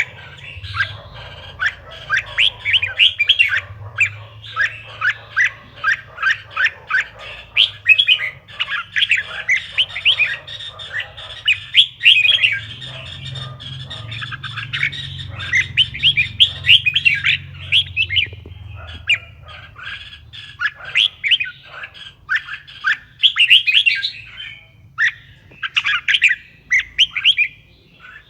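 Red-whiskered bulbul singing: a dense, continuous run of quick, bright chirping phrases, over a steady low hum.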